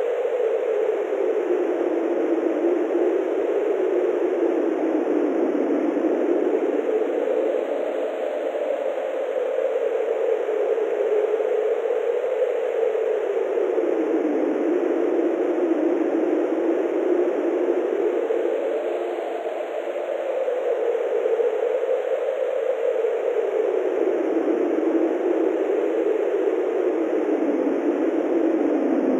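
Wind blowing steadily, a rushing noise whose pitch slowly rises and falls as it swells and eases.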